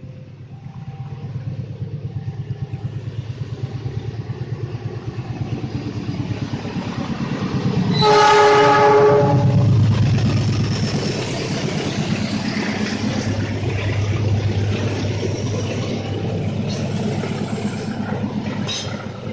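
CC206 diesel-electric locomotive approaching with a rhythmic low rumble that grows louder, sounding its horn once for about a second and a half some eight seconds in. The passenger cars then roll past with steady wheel rumble and clatter.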